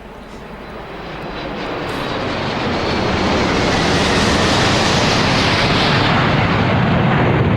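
An aircraft engine approaching, growing steadily louder over the first three seconds or so and then staying loud and steady.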